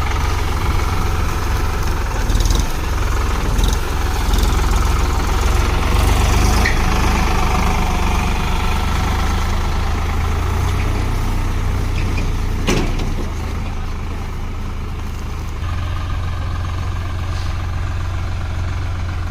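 Solis 5015 tractor's diesel engine running steadily with a deep, even hum. A single sharp knock comes about two-thirds of the way through, after which the engine runs a little quieter.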